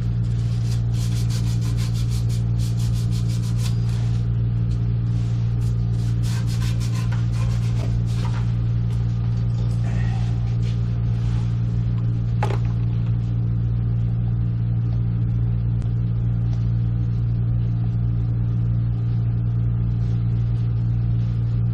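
A steady low hum with evenly spaced overtones, unchanging throughout, with rubbing and light clicks over the first several seconds and a single sharp click about twelve seconds in.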